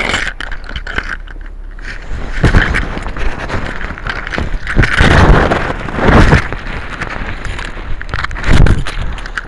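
Several loud bursts of rubbing and buffeting noise on the microphone as the handheld camera is jostled, over a steadier background rumble.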